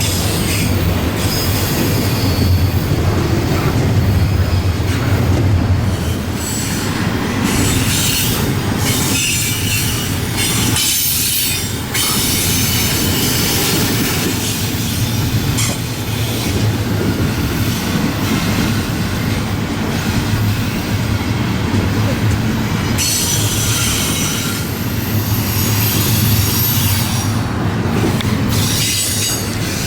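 CSX intermodal freight train rolling past, its steel wheels running steadily on the rails in a continuous loud rumble, with higher metallic noise coming and going.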